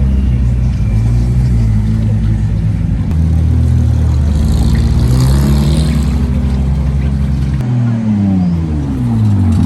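Supercar engine running loudly, its note holding, then stepping to new pitches, and falling away near the end.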